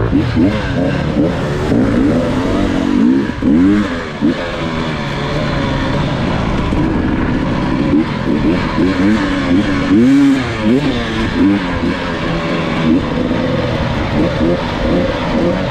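Off-road dirt bike engine revving up and down again and again, its pitch rising and falling every second or so.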